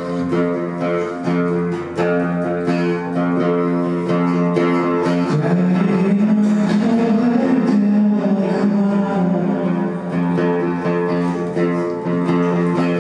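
Acoustic guitar playing sustained chords in a live song passage without singing. A second, wavering melodic line comes in about five seconds in.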